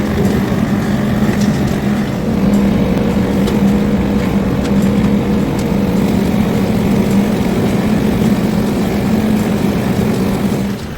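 Tractor engine running steadily under load while driving a bush hog rotary cutter through tall field growth, with a few faint clicks scattered through it.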